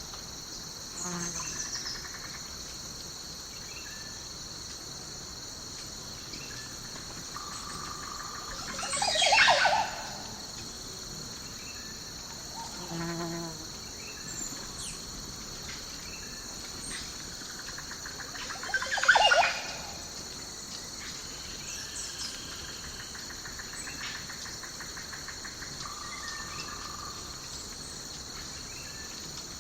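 Steady chorus of crickets chirping in a night-time country ambience. Two louder sounds of about a second each break in, about a third and two-thirds of the way through, with a few fainter short calls between.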